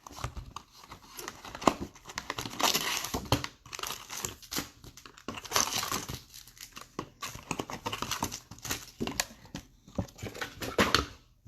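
Plastic wrapping on baseball card boxes or packs being crumpled and torn open, an irregular run of crackling.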